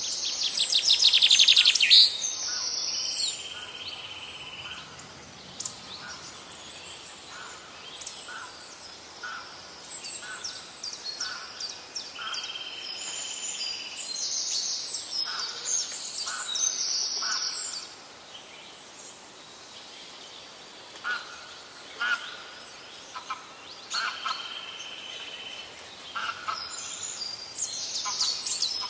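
Birds chirping and calling, with a loud rapid trill in the first two seconds and repeated short high chirps and a few held whistles after it.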